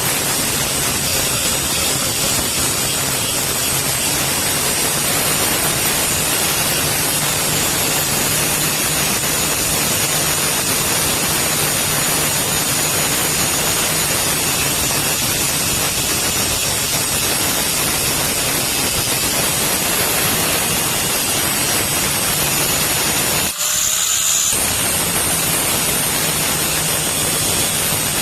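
Steady, loud machine noise with a low hum underneath, typical of a powered tool or blower in a blacksmith's workshop; it drops out for a moment about three-quarters of the way through, then carries on.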